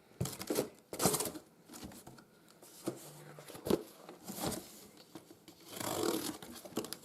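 Irregular clicks, knocks and rustling of objects being handled, with a short rustling stretch near the end.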